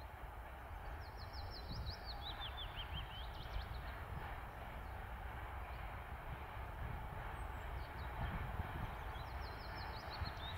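Low, steady rumble of an approaching electric freight train hauled by an ET41 locomotive, still some way off and growing slightly louder. A songbird sings a quick phrase of notes falling in pitch and ending in a rising flourish, about a second in and again near the end.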